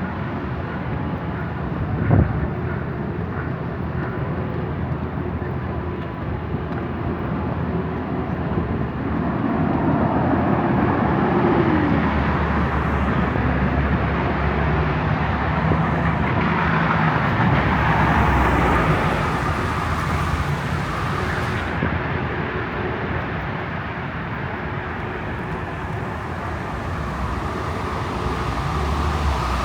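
City street in a windstorm: wind noise and traffic rumble, with vehicles passing by and a single sharp knock about two seconds in.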